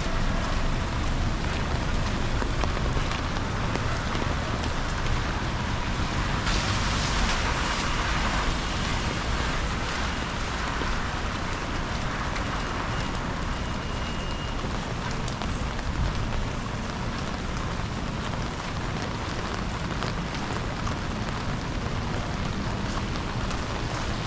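Steady rain falling, an even hiss over a low rumble, swelling louder for a few seconds about a quarter of the way in.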